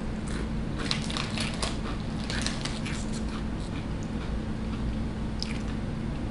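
Crunching of SunChips being bitten and chewed: a run of crisp crackles from about one to three seconds in and a few more near the end, over a steady low hum.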